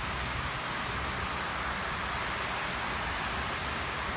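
Heavy wind-driven rain pouring steadily, a dense even hiss, with an uneven low rumble of wind beneath it.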